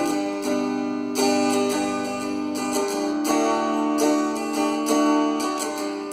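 Instrumental break in a song: a guitar plucking notes, with no singing.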